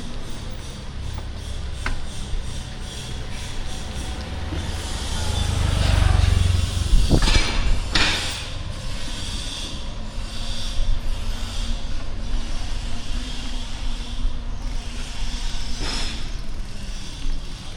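Street traffic heard from a moving bicycle. A motor vehicle passes close with a low rumble that swells about five to seven seconds in, followed by two sharp knocks, and another knock comes near the end. A light rhythmic rubbing ticks along in the first few seconds.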